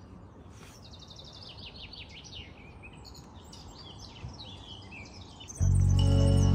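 Songbirds chirping and calling in quick, varied phrases over a faint outdoor hush. About five and a half seconds in, loud music cuts in suddenly.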